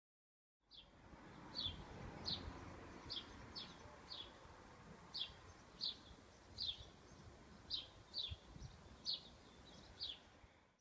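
A small bird calling over and over, short chirps that fall in pitch, about one or two a second, above a low steady outdoor background noise. The sound starts suddenly under a second in, out of dead silence, and cuts off at the end.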